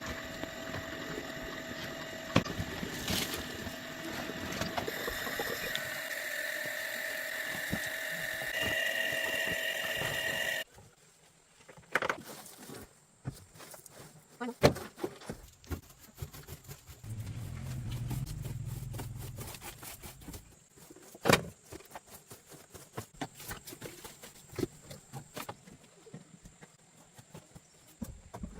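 A machine runs steadily with a whine of several fixed tones over a hiss, then cuts off suddenly about ten seconds in. Scattered knocks and clicks follow, with a short low hum in between.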